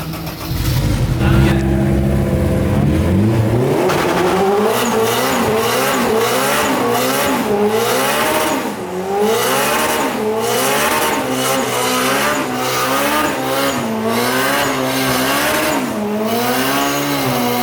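Car engine holding steady revs, then revving up and down in repeated swells about once a second, with tyre squeal, as in a burnout.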